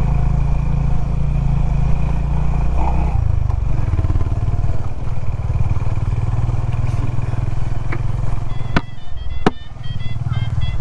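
Honda CB350 H'ness single-cylinder motorcycle engine running under way, its low throb shifting about three seconds in. Two sharp clicks near the end.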